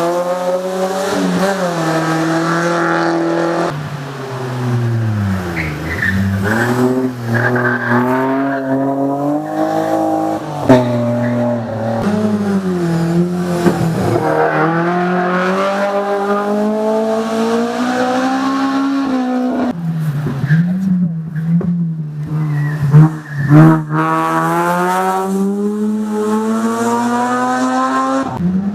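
Race car engine driven hard, its pitch climbing through each gear and dropping at the shifts and under braking, again and again. A few sharp loud pops stand out, about eleven seconds in and twice near the end.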